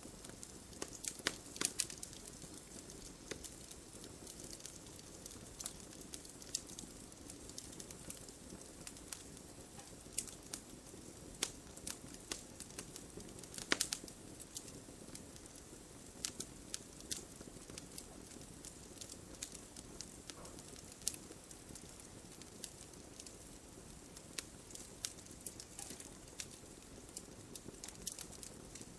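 Wood campfire burning, crackling with frequent small pops and occasional louder snaps over a soft steady hiss.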